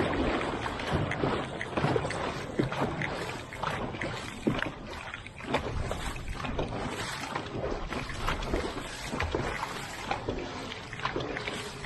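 Dragon boat crew paddling hard just after a start, the paddles striking and pulling through the water in a steady rhythm, with a constant rush of water and wind on the microphone.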